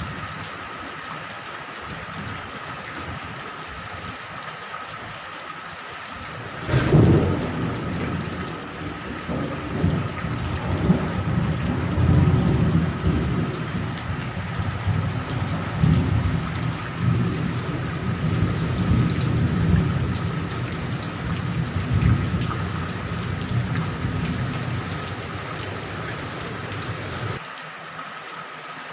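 Steady heavy rain, then a sudden thunderclap about seven seconds in that rolls on as a long low rumble, swelling and easing for some twenty seconds before cutting off suddenly near the end.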